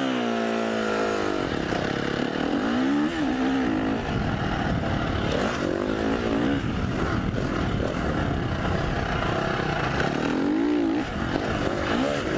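2015 KTM 350 SX-F dirt bike's single-cylinder four-stroke engine being ridden hard, its revs rising and falling several times as the rider works the throttle.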